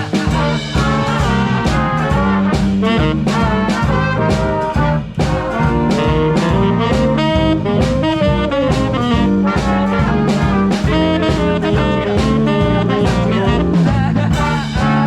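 Swing band playing with a steady beat: brass and saxophones over a walking bass and drums.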